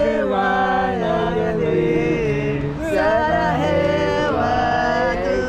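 A voice singing a slow melody of long held notes that slide and waver between pitches.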